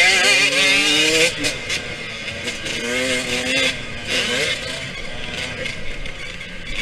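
Yamaha YZ125X two-stroke dirt bike engine being ridden, its pitch climbing and dropping back several times over a steady rushing hiss.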